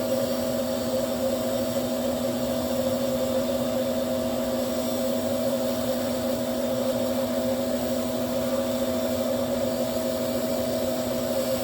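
A blowing device runs steadily with a constant motor hum and rushing air, forcing air through a forge packed with glowing coffee-ground charcoal to blow embers out of the lid.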